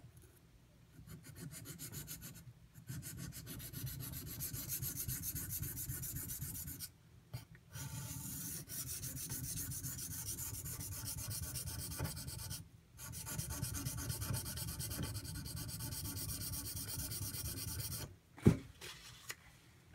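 Steel knife blade scraping back and forth across a Shapton Pro water stone, stroke after stroke, with brief pauses, while the edge is worked toward the tip to reach the apex. The strokes stop near the end, and a single sharp knock follows, the loudest sound.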